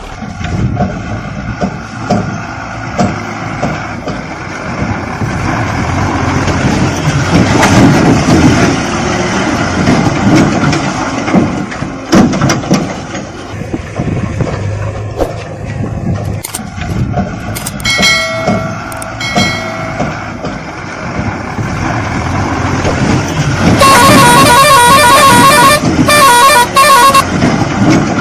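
Toy vehicles rattling and knocking as they are played with, with two short horn beeps about two-thirds of the way through and a longer broken run of horn honks near the end.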